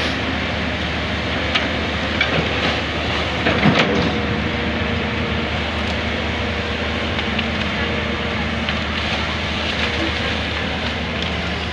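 Hydraulic excavator's diesel engine running steadily, with a few knocks and clanks about two to four seconds in.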